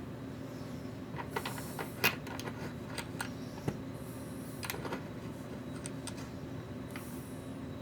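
A scatter of small sharp clicks and taps from connector parts and tools being handled at a workbench during an EC5 connector job. The loudest click comes about two seconds in. A steady low hum runs underneath, with a few short high hisses.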